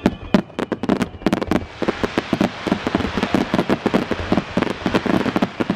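Fireworks crackling overhead: scattered sharp pops that thicken into a dense, rapid crackle about two seconds in.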